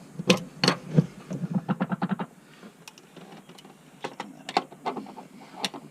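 Hand ratchet wrench clicking: a few single clicks, a quick run of clicks about a second and a half in, then scattered clicks.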